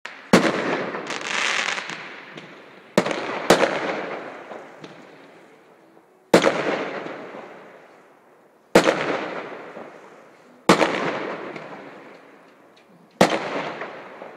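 Aerial fireworks bursting: about eight sharp bangs, some in quick pairs, every two to three seconds, each followed by a long rolling echo that fades away. A brief hiss comes shortly after the first bangs.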